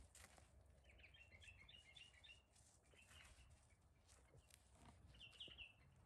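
Faint birdsong over near silence: clusters of quick, high chirps about a second in, a short call around three seconds, and a brighter burst near the end.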